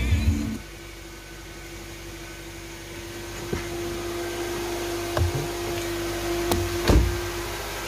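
Car-radio music cuts off about half a second in, leaving the steady hum of a 2015 Nissan Sentra idling, heard inside the cabin, with its new cold air intake fitted. A few short knocks come through the hum, the loudest about seven seconds in.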